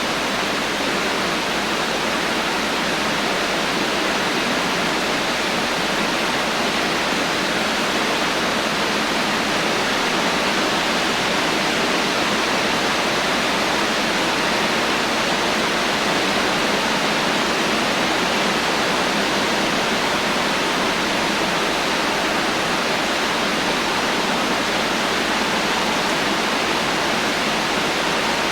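Heavy rain falling steadily, a dense even hiss with no thunder and no distinct drops.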